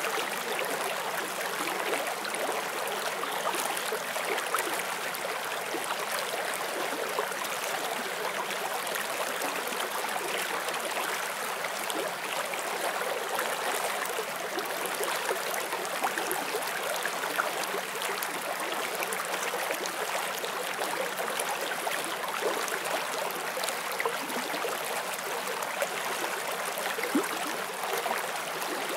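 A forest stream flowing over rocks: a steady rush of water with small bubbling and splashing sounds throughout.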